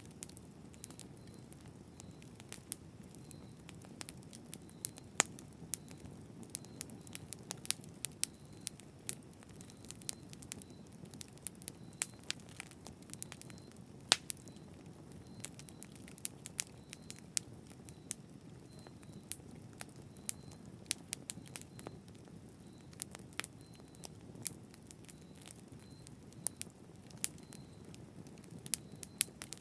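Wood bonfire burning: a steady low rush of flame with irregular sharp crackles and pops throughout, two of them louder, about five and fourteen seconds in.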